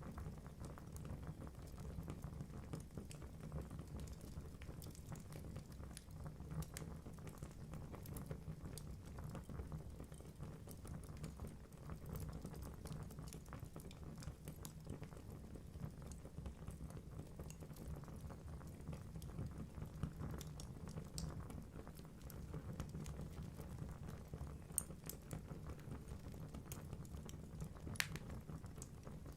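Wood fire burning in a fireplace: logs crackling with frequent small snaps over a steady low rumble of flame, and a couple of sharper pops near the end.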